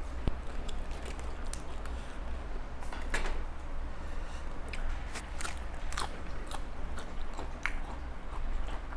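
Close-up chewing and crunching of a person eating spicy pounded papaya salad with seafood: irregular sharp crunches and wet chewing over a steady low hum.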